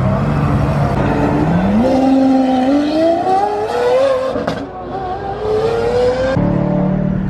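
Car engine accelerating hard: the revs climb for a few seconds, drop sharply about four and a half seconds in at a gear change, then climb again. Near the end the sound switches abruptly to a steadier, lower engine note.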